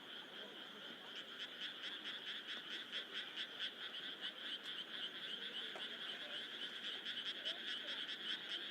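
A chorus of frogs croaking steadily, many rapid pulsed calls overlapping.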